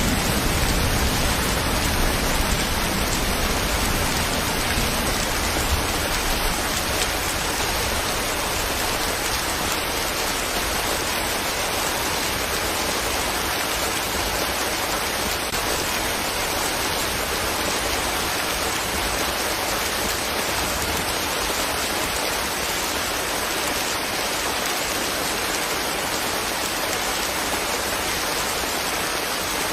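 Steady rain falling, a dense even hiss of raindrops, with a low rumble underneath that fades out over the first several seconds.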